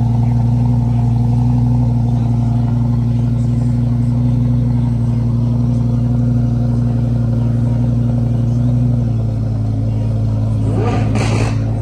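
Car engine idling nearby: a steady low drone that drops slightly in pitch about nine seconds in. Voices join near the end.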